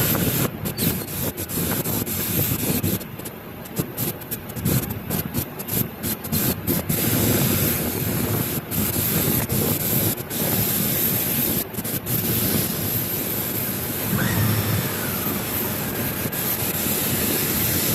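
Thrust reverser on an Airbus A350-900's Rolls-Royce Trent XWB nacelle being cycled on the ground: a steady hiss and rumble from the reverser actuation, with the level rising and falling unevenly.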